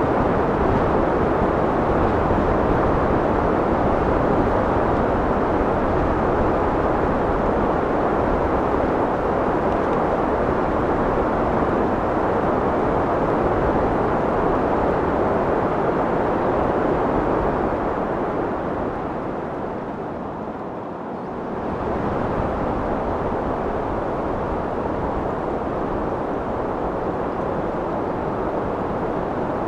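Steady wind blowing with a low rushing noise. It eases off about two-thirds of the way through and picks up again a couple of seconds later.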